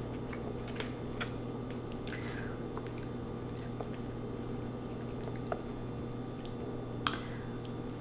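Close-miked chewing and wet mouth sounds of someone eating lo mein noodles, with scattered small clicks and smacks, the sharpest about seven seconds in.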